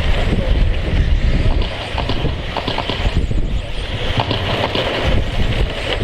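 Wind buffeting the microphone, over the steady whine of electric RC stadium trucks with 13.5-turn brushless motors racing on a dirt oval.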